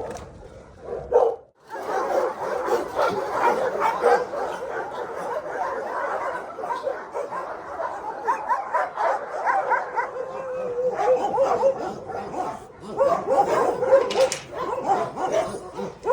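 Many shelter dogs barking and yipping at once, a dense, continuous din of overlapping barks. It breaks off briefly about a second and a half in, then carries on unbroken.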